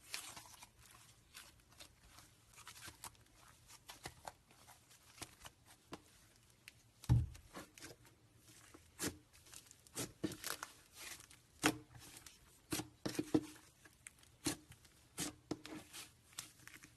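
Slime being squeezed and pressed by hand, making irregular sticky clicks and pops, with one heavier thump about seven seconds in.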